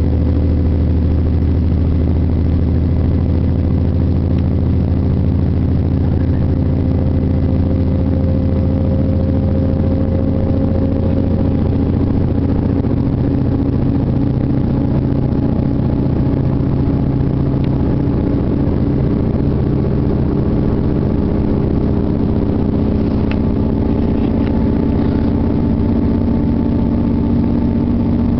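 Passenger train running at speed, heard from inside the carriage: a steady drone of engine and running noise. Its low tones shift slightly in pitch partway through.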